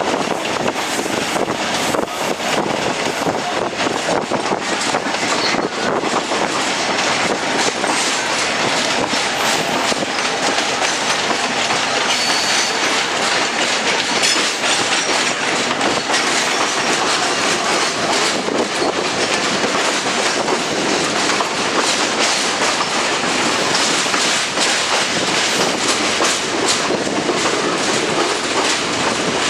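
Express train with ICF passenger coaches running along the track: a steady rushing rumble, with the wheels clicking over rail joints again and again throughout.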